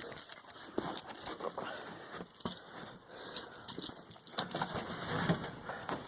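A bunch of keys jangling, with scattered light clicks and rattles. No engine is running yet.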